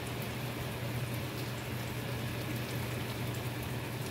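Cauliflower, broccoli and mushrooms sizzling in a frying pan, a steady fine crackle with small pops, over a low steady hum.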